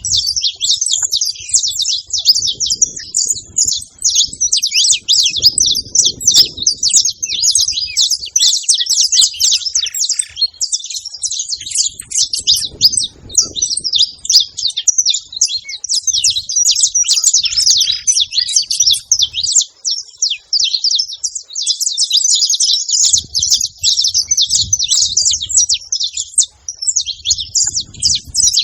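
Saffron finch singing: a long, fast, almost unbroken run of high chirping notes, with a short pause about two-thirds of the way through.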